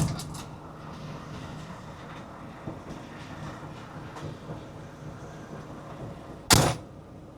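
Semi truck's engine idling, heard from inside the cab as a steady low hum. A single loud thump comes about six and a half seconds in.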